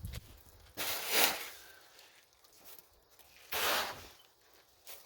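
Snow shovel scraping and pushing through packed snow in two strokes, a couple of seconds apart.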